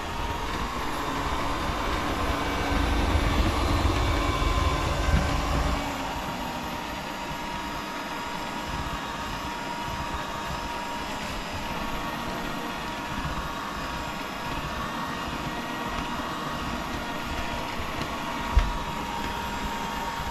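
Robot vacuum cleaner running: a steady motor and brush noise with a faint steady whine, heavier and lower for the first six seconds or so. One short knock comes near the end.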